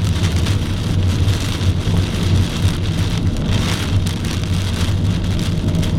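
Heavy rain pelting a moving car's roof and windshield while driving through a thunderstorm's core, a dense patter of many small hits, heard from inside the cabin over the car's steady low road hum.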